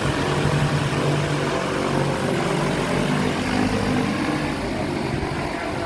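A machine running steadily: a low drone with a hiss over it, easing off slightly near the end.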